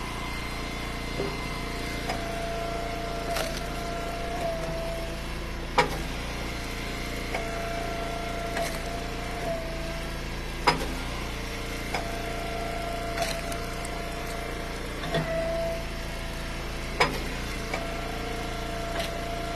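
An Eastonmade Ultra hydraulic log splitter running steadily under its engine while small firewood pieces are split into kindling. A higher whine comes in for a second or more several times as the ram works, and sharp cracks of splitting wood sound about six times.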